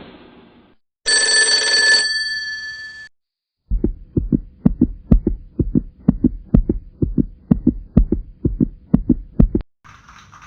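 Heartbeat sound effect: low double thumps repeating steadily for about six seconds. It is preceded by a bell-like ring lasting about two seconds and followed, just before the end, by the start of a steady clapping hiss.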